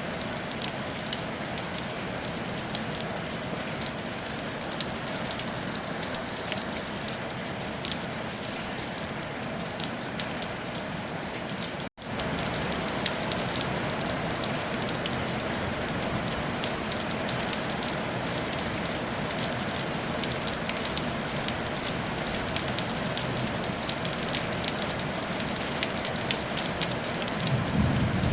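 Steady rain falling on a tile roof, a dense patter of many small drop ticks. The sound cuts out for an instant about halfway through and comes back slightly louder. A low rumble swells up near the end.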